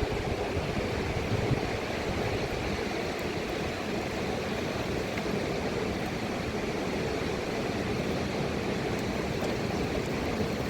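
Mountain river water rushing, a steady even noise.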